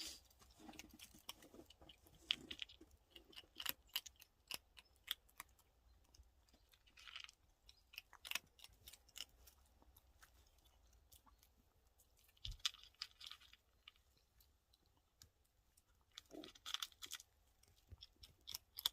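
Faint, intermittent crunching and clicking in short clusters, with quiet gaps between.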